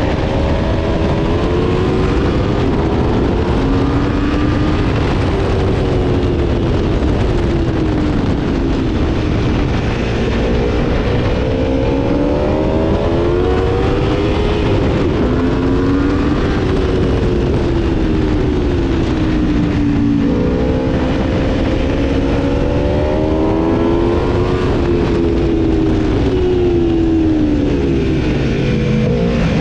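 Aprilia Tuono V4's V4 engine under hard riding: its pitch climbs and falls again and again as the bike accelerates and slows, over heavy wind rush.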